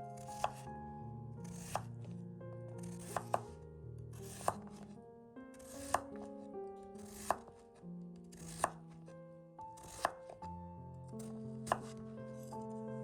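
Kitchen knife cutting through food onto a cutting board, in single, evenly spaced strokes about once every second or so, over background music.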